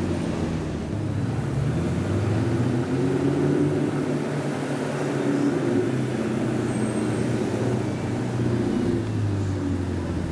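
Sports car engines running at low revs in slow-moving traffic: a steady deep exhaust hum whose pitch shifts a little as the cars creep forward.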